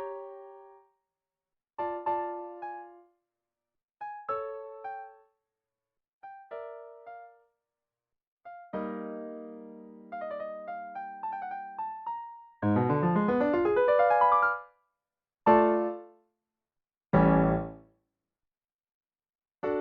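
Piano music: short phrases of notes broken by complete silences, with a fast rising run of notes a little past the middle and two short chords near the end.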